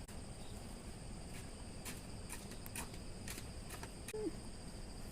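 Fleas being crushed and popped between fingernails: a run of about seven small, sharp clicks that starts about a second and a half in, over a steady high-pitched background tone.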